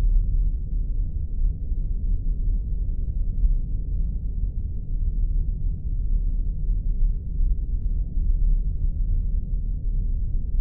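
Spaceship sound effect: a steady, deep engine hum, with nearly all of its sound in the low bass and nothing high.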